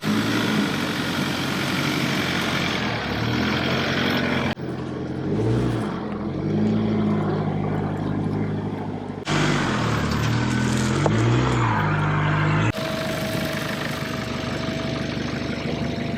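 Nissan Patrol's ZD30 four-cylinder turbo-diesel engine running under way, its note rising and falling with the throttle. The sound changes abruptly three times where separate clips are cut together.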